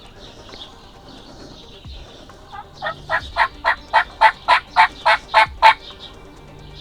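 A run of about a dozen turkey yelps, evenly spaced at roughly four a second and growing louder, over faint songbird chatter.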